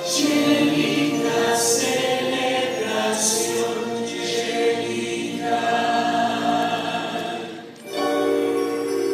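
Stage-musical ensemble singing in chorus over music, holding long chords; the sound drops briefly near the end before a new chord comes in.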